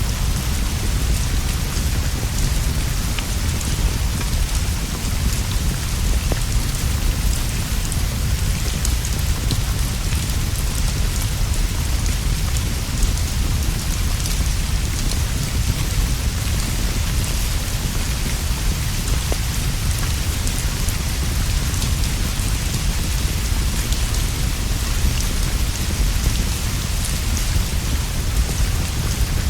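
Steady heavy rainfall, an even hiss of drops on leaves and roof, over a constant deep low rumble, with scattered small ticks and drips.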